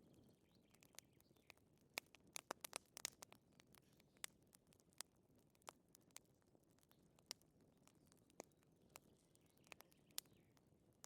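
Faint crackling of a fire in a fireplace: irregular sharp pops and snaps, thickest about two to three seconds in.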